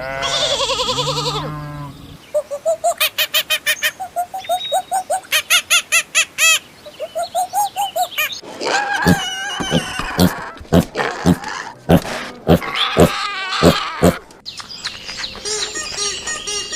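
A run of different animal calls: a long wavering call for the first two seconds, then a fast series of short chirps, about five a second, then a louder stretch of sharp, rough calls.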